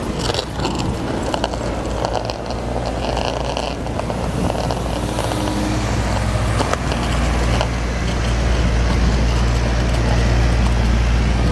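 Cruiser skateboard wheels rolling on city pavement: a steady low rumble that grows louder about two-thirds of the way through, with a couple of sharp clicks, over street traffic.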